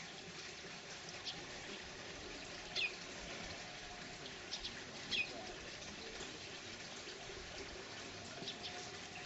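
Faint outdoor morning ambience with a steady low hiss and a few short bird chirps; the two clearest, about three and five seconds in, fall in pitch.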